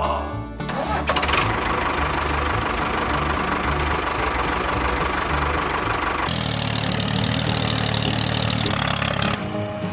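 A small engine running steadily with a rapid knocking beat; its sound changes about six seconds in, turning steadier and lower.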